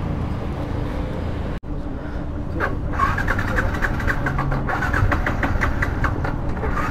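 Motorcycle engine idling with a steady low rumble, with a run of quick, irregular clicks over it from about three seconds in.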